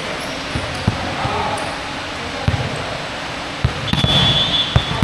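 A basketball bouncing on a court floor, with irregular thumps over the steady din of the hall and voices. A high steady tone sounds for about a second near the end.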